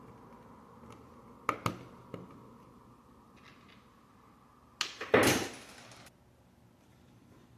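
Plastic Lego pieces being handled and snapped together: a few sharp clicks, then a second pair of clicks followed by about a second of rustling that stops abruptly.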